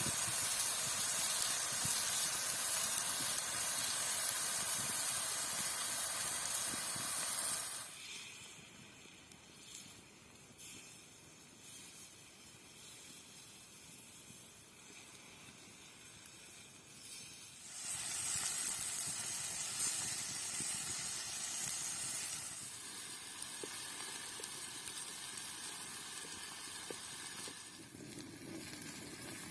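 Chicken sizzling as it fries in hot fat in a pan, a steady hiss that drops away abruptly about eight seconds in and comes back loud some ten seconds later before settling lower.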